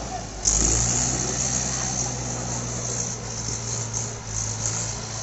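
Mahindra 475 DI tractor's diesel engine running hard under load, its revs rising sharply about half a second in and then holding steady, as the tractor struggles to move a loaded soil trolley.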